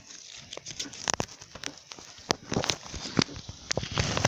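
Irregular crackling and snapping of dry twigs and leaves, a quick run of sharp clicks with no steady rhythm.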